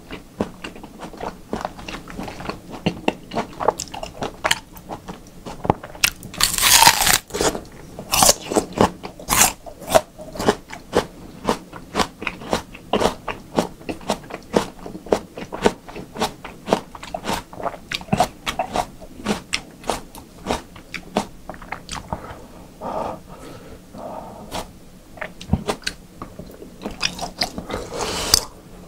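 Close-miked mouth sounds of chewing raw beef: many irregular wet clicks and smacks, several a second, with one louder noisy burst about seven seconds in.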